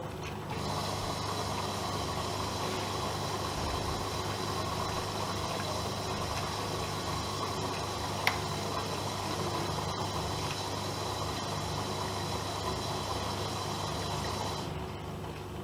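AEG Öko-Lavamat Lavalogic 1600 washing machine taking in water: a steady hiss of inflowing water starts suddenly about half a second in and cuts off shortly before the end, over a steady low hum. A single sharp click comes about halfway through.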